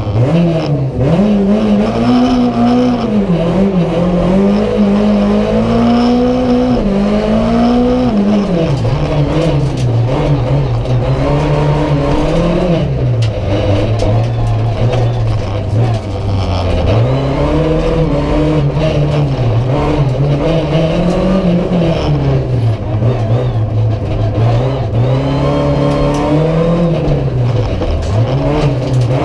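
Renault Clio Ragnotti's four-cylinder engine heard from inside the cabin, revving hard and rising and falling in pitch over and over as the car accelerates, changes gear and slows between gates. The revs climb and drop quickly over the first eight seconds, then swing up and down at a lower pitch for the rest.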